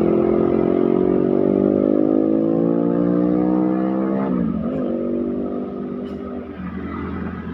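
Truck diesel engine pulling with steadily rising revs, dropping sharply at a gear change about four seconds in, then picking up again at lower revs and fading as it moves off.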